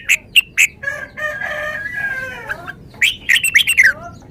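Red-whiskered bulbul calling in short, sharp notes, three near the start and a rapid run ending on a falling note near the end. In between, a rooster crows for about a second and a half.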